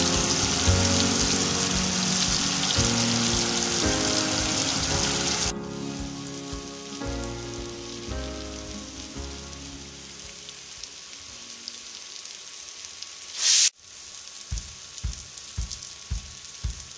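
Stuffed bitter gourds sizzling as they fry in oil in a pan, a loud hiss that drops off sharply about five and a half seconds in. Background music with changing notes plays under it throughout, and a brief loud burst of hiss comes near the end.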